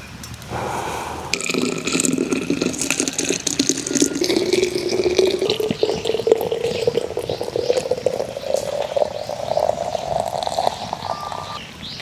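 Water pouring into a container, its note rising steadily as the container fills. The flow stops shortly before the end.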